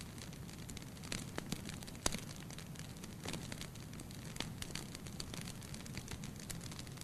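Fire in a fireplace crackling: irregular sharp pops and snaps over a steady low rumble, with one louder pop about two seconds in.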